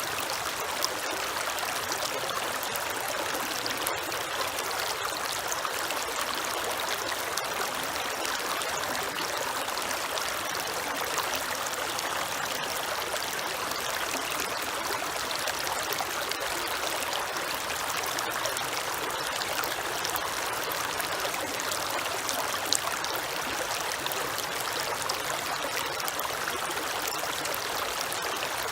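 Creek water flowing steadily over stones, a continuous trickling and splashing.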